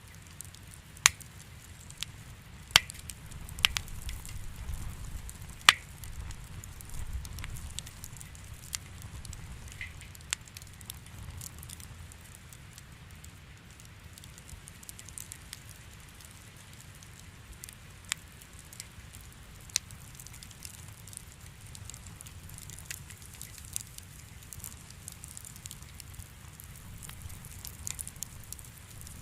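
Wood fire crackling in a fireplace, with scattered sharp pops over a steady low rumble of the flames. The loudest pops come in the first several seconds, then they thin out to occasional single pops.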